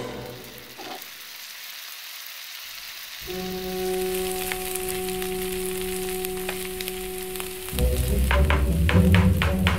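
Shrimp paste sizzling as it fries in oil in a pan. Background orchestral music plays over it: a long held low note from about three seconds in, then louder rhythmic music near the end.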